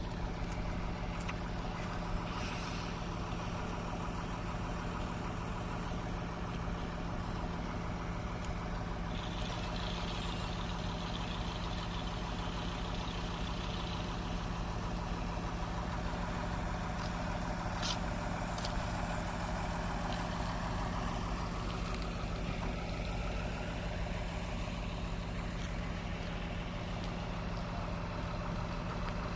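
An engine running steadily with a constant low hum, like a vehicle or machine idling.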